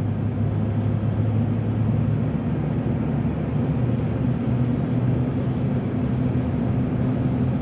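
Car driving along a road: a steady engine drone with tyre and road noise, even throughout.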